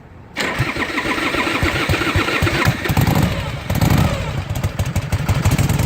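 Cold start of a Harley-Davidson Panhead-style V-twin motorcycle engine, with no choke: it turns over and fires about half a second in, then runs unevenly, with the revs surging twice. The engine is a little cold-blooded.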